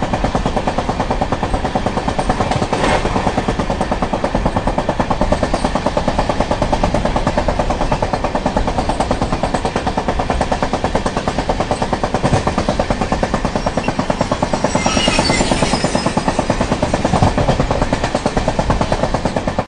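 Passenger train running at speed, heard from the coach door: a steady rumble with a rapid, dense rattle of wheels and carriage. A brief brighter, higher-pitched stretch comes about fifteen seconds in.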